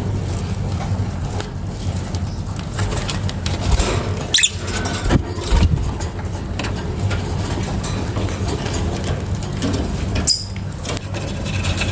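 Pet lovebirds: two short high chirps, one about four seconds in and one near the end, with scattered clicks and scratches over a steady low rumble.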